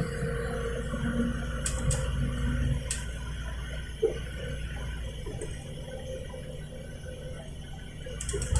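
City bus running between stops, heard from inside: a steady low engine and road rumble with a few light rattles and clicks in the first three seconds.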